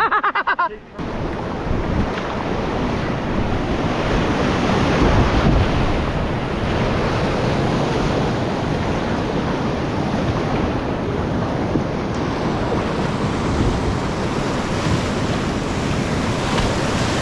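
Whitewater rapid rushing steadily and loudly, with water and wind buffeting the microphone.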